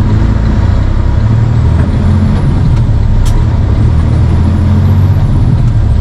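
Dump truck's diesel engine droning inside the cab while driving, its pitch shifting a couple of times as engine speed changes, with one short sharp hiss about three seconds in.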